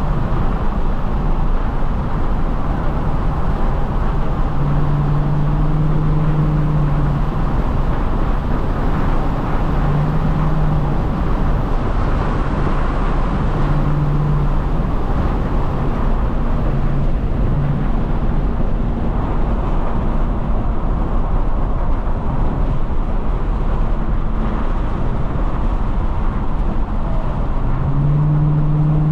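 Ford Mustang driving on the road: a steady rumble of engine and road noise, with a low engine drone that swells up several times.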